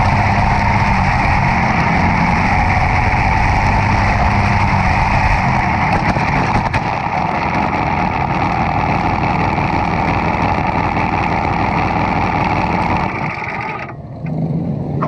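Demolition derby car's engine running hard and steady at high revs. About thirteen seconds in the revs fall away sharply, then pick back up.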